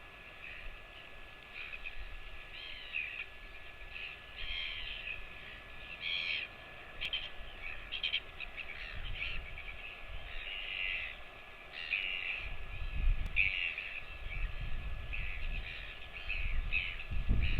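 Birds calling repeatedly in short, harsh calls. A low rumble on the microphone comes in about twelve seconds in and grows toward the end.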